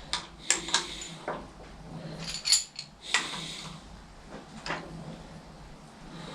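Metal clinks and knocks of hand tools and work on a metal lathe: about half a dozen sharp separate strikes, one about two and a half seconds in ringing briefly.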